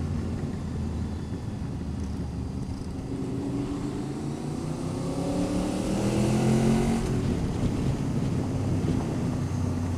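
Motorcycle engine under way, its pitch rising steadily for a few seconds as it accelerates, then dropping about seven seconds in as it shifts up, under a low rush of wind.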